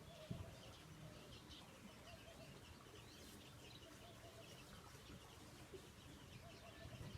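Faint chirping of small birds, repeated throughout, over a low outdoor background hum. A brief low thump comes about a third of a second in.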